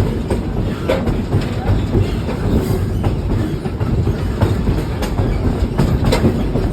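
Train running along the rails: a steady low rumble with irregular clicks and knocks of the wheels over the track.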